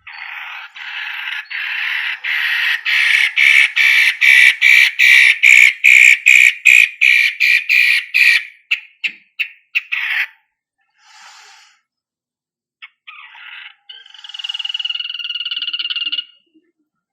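Long-tailed shrike (cendet) song: a long run of rapidly repeated notes, about three a second, growing louder and then breaking off about ten seconds in, followed by a shorter trilled phrase near the end.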